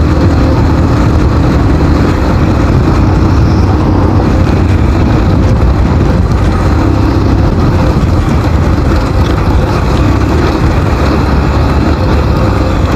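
Motorcycle running at speed on a rough road: a loud, steady, dense rumble, heaviest in the low end.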